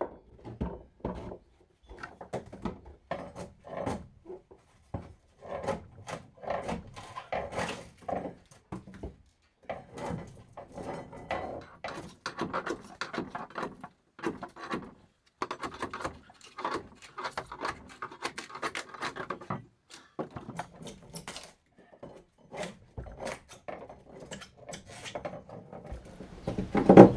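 Irregular hand-tool scraping and knocking on a fibreglass boat hull as rotten, waterlogged foam is dug and scraped out, in quick uneven strokes with short pauses.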